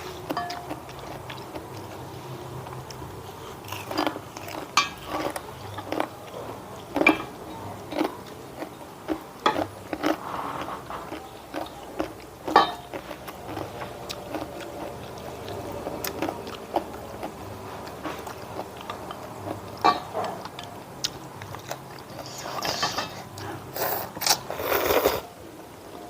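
Close-up eating sounds: food being bitten and chewed, with crisp crunches at irregular intervals, coming thicker near the end.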